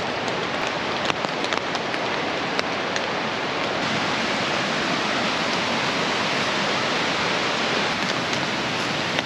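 Steady rush of rain and a fast-flowing river, with scattered sharp ticks through the first few seconds.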